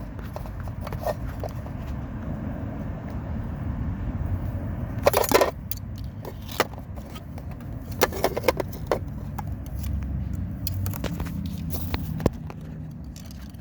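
Clicks, rattles and scraping of a flathead screwdriver prying plastic clips as an engine wiring harness is worked loose, over a steady low rumble. The loudest rattle comes about five seconds in, with another run of clicks around eight to nine seconds.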